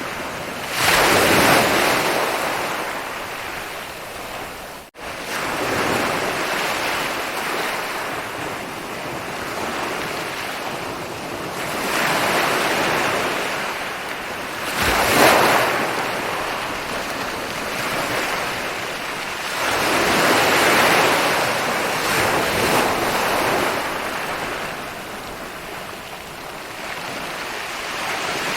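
Ocean waves rolling in and breaking on a beach, the surf swelling and falling away every few seconds. The sound cuts out for an instant about five seconds in.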